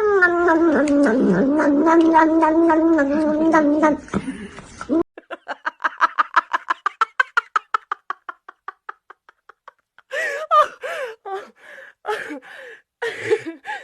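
Cat vocalizing: a long, wavering yowl for about four seconds, then a fast run of short pulsed sounds, then short irregular cries near the end.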